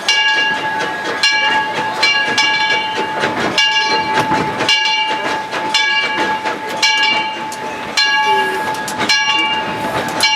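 A steam locomotive's bell ringing steadily, struck about once a second, each stroke ringing on into the next, over the noise of the running train.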